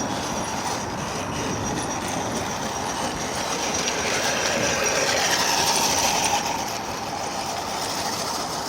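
Rolling thunder: a long continuous rumble that swells about four seconds in and eases again toward the end.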